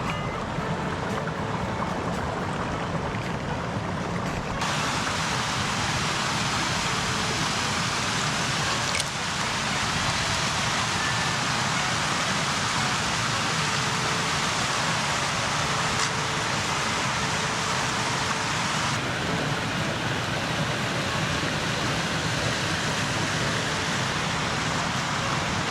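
River water rushing steadily. The sound shifts abruptly in brightness about five seconds in and again near twenty seconds.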